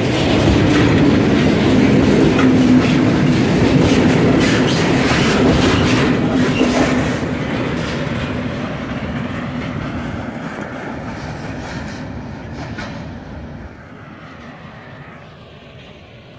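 A freight train of tank wagons rolls past close by, its wheels clattering on the rails. About halfway through the last wagon goes by and the clatter fades steadily as the train moves away.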